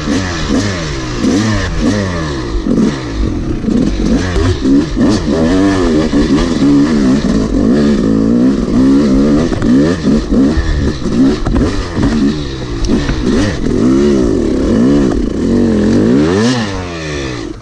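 Yamaha YZ250 two-stroke dirt bike engine being ridden, revving up and falling back over and over as the throttle is worked. The revs drop off sharply near the end.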